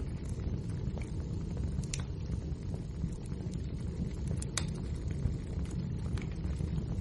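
Wood fire burning: a steady low rumble with scattered sharp crackles and pops, the strongest about two seconds and four and a half seconds in.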